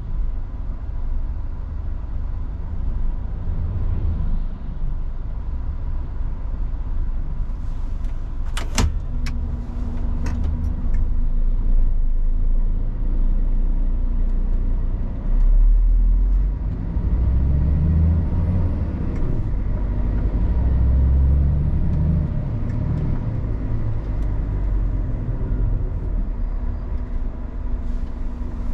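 Scania R450 truck's inline-six diesel engine running steadily while driving, with a few sharp clicks about nine seconds in and the engine drone swelling louder for a few seconds past the middle.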